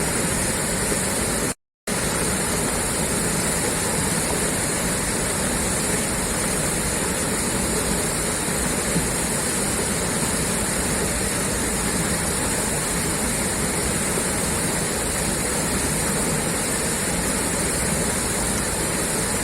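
Water gushing steadily out of a pipe, a constant rushing noise. It cuts out to silence for a moment about one and a half seconds in, then resumes unchanged.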